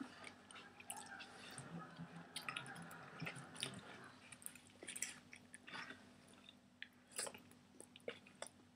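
Noodles being chewed and slurped by two eaters. It is faint: scattered small wet smacks and clicks.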